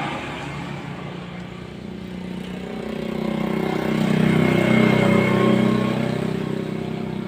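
A motor vehicle engine passing by: it grows louder to a peak about four to five seconds in, then fades.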